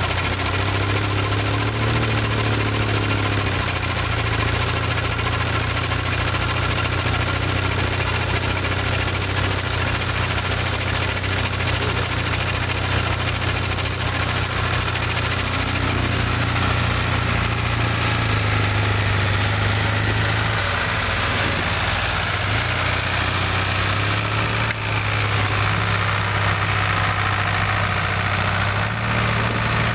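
Antique tractor engine running steadily, its note shifting slightly a few times.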